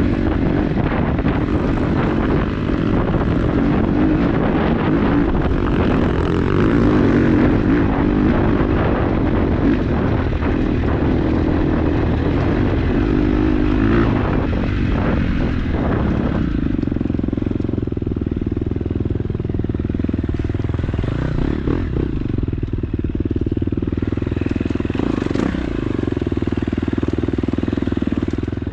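KTM 250 dirt bike engine running as the bike is ridden on a trail, the revs shifting with the throttle. About sixteen seconds in, the sound turns steadier and duller.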